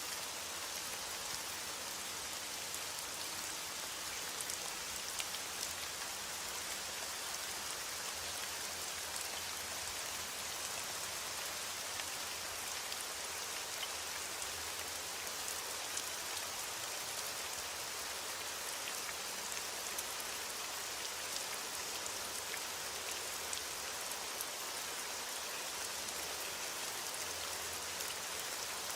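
Steady rain falling: an even hiss dotted with many small ticks of individual drops.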